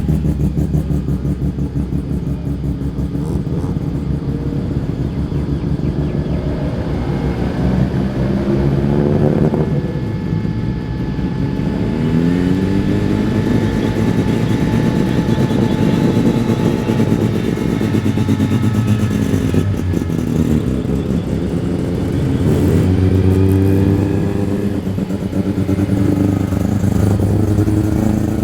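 Muscle car engines running as the cars drive slowly past one after another, their note rising and falling with light throttle blips several times.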